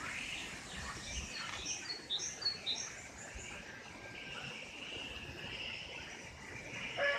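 Small birds chirping in short, repeated high notes over a steady high-pitched insect-like buzz. A rooster starts crowing at the very end.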